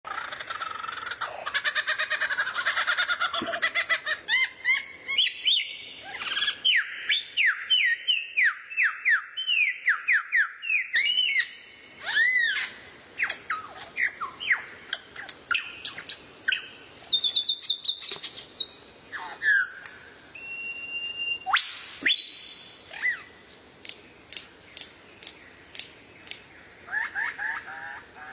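A songbird singing a varied song: a fast, dense chatter for the first few seconds, then a quick run of falling whistled notes, then scattered whistles and chirps that grow sparser toward the end.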